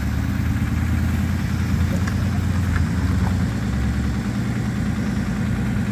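Engine of an off-road vehicle idling, a low steady note.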